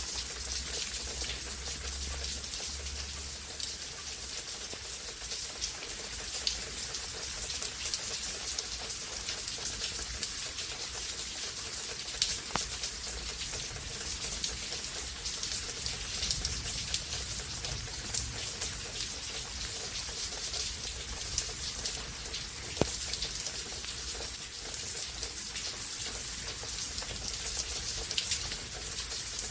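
Steady rain falling, a dense hiss of drops with a few sharper drip ticks now and then.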